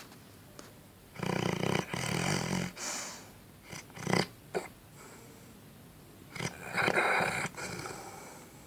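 Labrador dog snoring like a person: a long, rattling snore about a second in, a few short, sharp breaths in the middle, and another long snore near the end, with quieter pauses between breaths.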